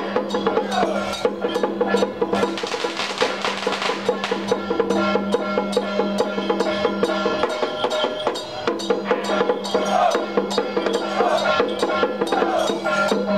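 Temple procession music: fast, steady percussion strokes over a held low tone, with a wavering melody line above.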